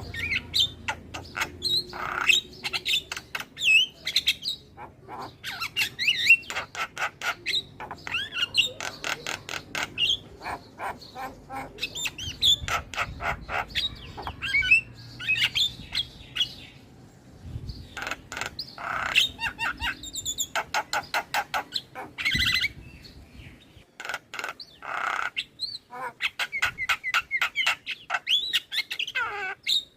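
Javan myna (jalak kebo) singing: fast runs of harsh, clicking chatter mixed with whistled rising and falling notes, in long phrases broken by a few short pauses.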